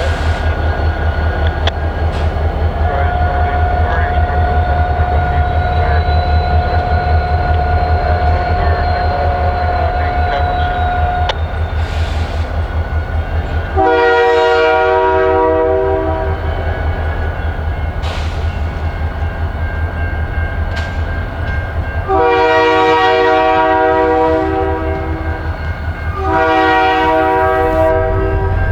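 Diesel locomotive horn sounding three long blasts, the last still going at the end, over the steady throb of the locomotive's diesel engine. A thin steady whine runs for several seconds before the first blast.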